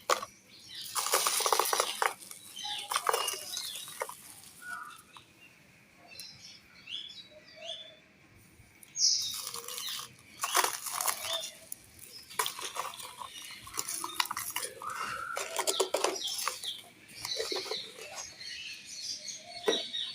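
Dry clay and black sand being crushed and crumbled by hand, crunching and crackling in irregular bursts with short pauses between.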